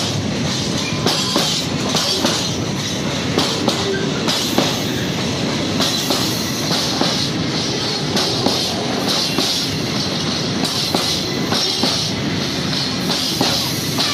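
Freight train of open-top wagons passing close by: a loud, steady rumble of wheels on rail, with repeated clacks as the wheels cross rail joints.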